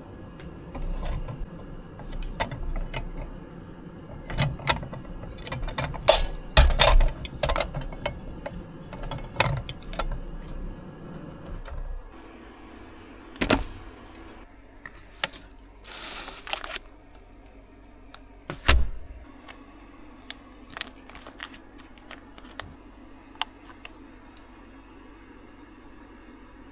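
Small objects being handled and set down: a run of clicks, knocks and light rattles, busiest in the first twelve seconds and sparse after, with a short hissing rustle about sixteen seconds in.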